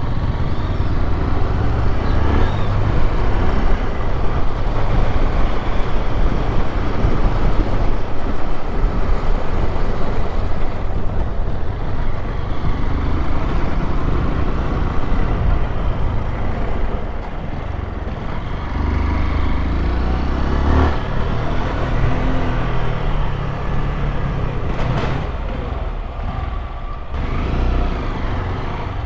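Honda XRE 190 motorcycle being ridden in city traffic: its single-cylinder engine running under way, mixed with wind and road noise that swells and eases with speed.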